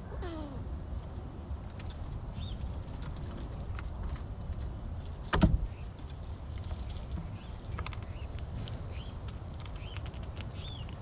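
Outdoor ambience: a steady low rumble with faint bird chirps, short arched notes repeated in small groups, and a single sharp thump about halfway through.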